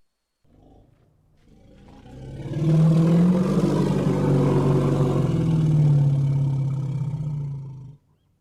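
Elephant giving one long, deep call that swells in about two seconds in, holds for roughly five seconds, then cuts off suddenly.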